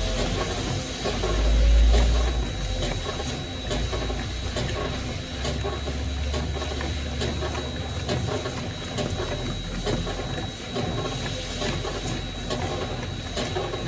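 Consul Facilite CWG12 top-load washing machine agitating a wash load: water sloshing with mechanical clicking from the agitator drive, and a low rumble about two seconds in.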